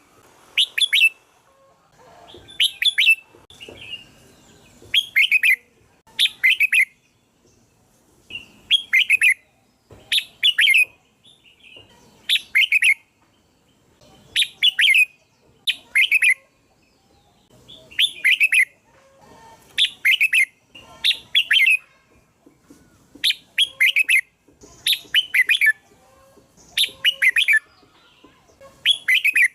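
Red-whiskered bulbul song: short, bright phrases of quick notes, repeated about every two seconds. It is a lure call for drawing in red-whiskered bulbuls.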